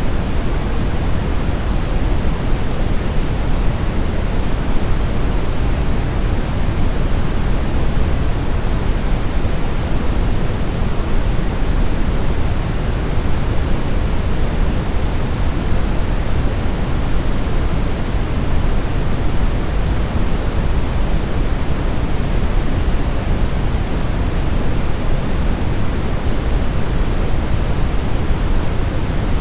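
Steady brown noise: an even, featureless rushing hiss weighted toward the low end, with no changes or events.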